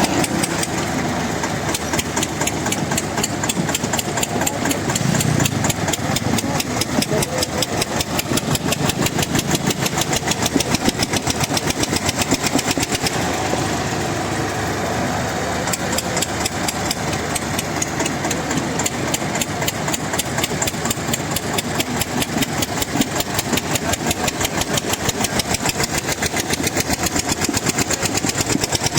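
Tractor diesel engines running hard under load in a tractor tug-of-war, with a fast, even exhaust beat.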